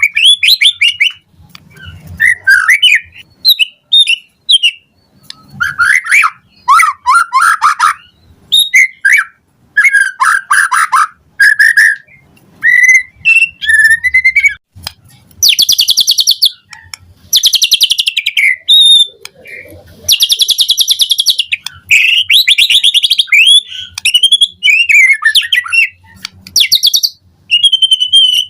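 White-rumped shama (murai batu) singing a long, varied song: short whistled phrases, quick trills and chirps separated by brief pauses, with harsh buzzy notes around the middle.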